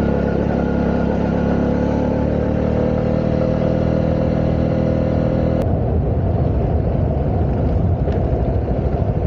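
Honda CB125R's single-cylinder four-stroke engine running steadily under way. About five and a half seconds in, the steady engine note suddenly drops away as the clutch is pulled in, leaving a low, uneven idle beat while the bike coasts.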